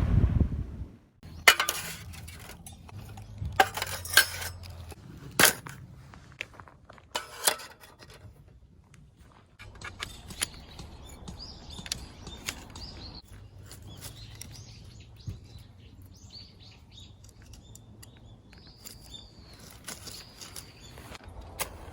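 Camping gear being handled, with several sharp metallic clinks and knocks in the first half, followed by birds chirping in the background.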